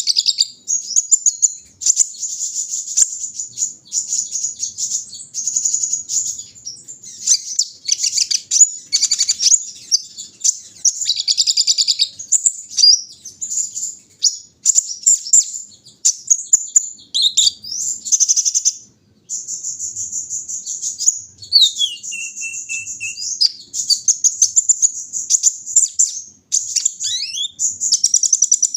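Brown-throated sunbird (kolibri ninja) singing a long, fast, high-pitched chattering song in runs broken by short pauses, with a few notes sliding down in pitch about two-thirds of the way through.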